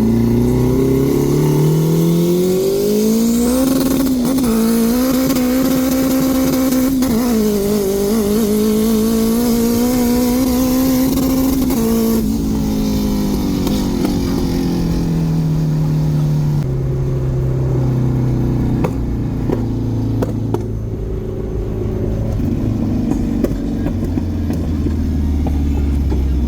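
A car engine accelerating hard in a street race: its pitch climbs for about four seconds and holds high for several more, with a rushing hiss alongside. About twelve seconds in it backs off, and the pitch falls to a low, steady hum as the car slows.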